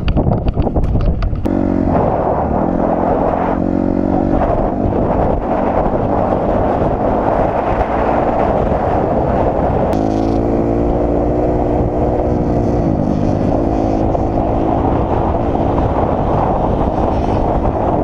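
Dirt bike engine running under load as the bike is ridden, its pitch rising and falling several times with throttle and gear changes. The first second and a half is rough and clattery.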